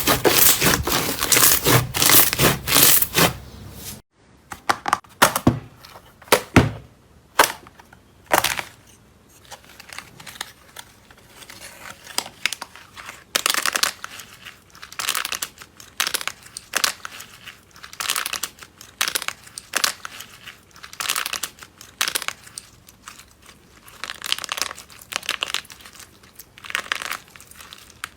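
Slime being pressed and squeezed by hand: dense crackling for about the first four seconds, then an abrupt change to separate sticky pops and crackles, roughly one a second.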